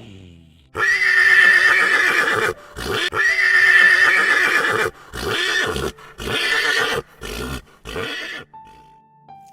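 Horse neighing: two long, quavering whinnies, followed by several shorter calls that grow fainter.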